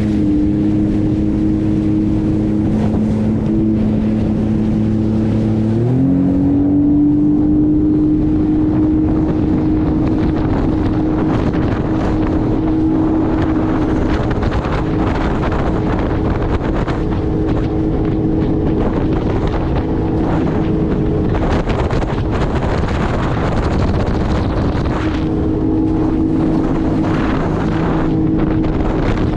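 Jet ski engine running at low throttle, then revving up about six seconds in and holding a steady higher pitch at speed, with wind noise on the microphone.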